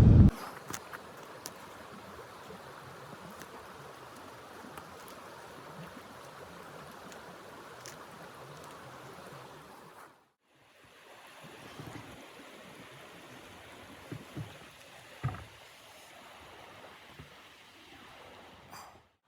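Steady rushing noise with scattered faint clicks and a few louder knocks, cutting out briefly about halfway through.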